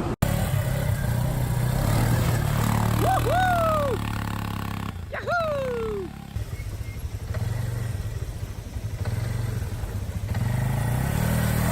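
Beach ATV engine running as it is ridden over sand. It eases off about six seconds in and picks up again near the end. Two short rising-and-falling whoops are heard about three and five seconds in.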